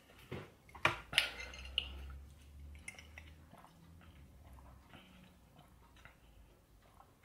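Close-up chewing of food, with a few sharp clicks in the first second and a half, then quieter mouth sounds.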